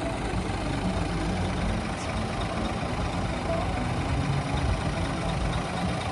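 Scania S500 truck's diesel engine running steadily at low revs.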